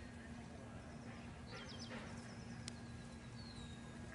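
Faint outdoor background with a few short bird chirps and whistles over a steady low hum.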